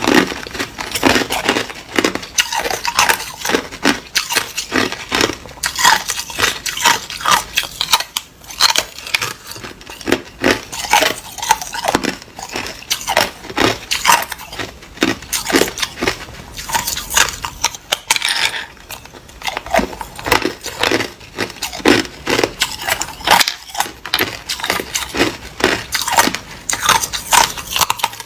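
Hard ice being bitten and chewed close to the microphone: a steady run of sharp crunches and crackles, several a second.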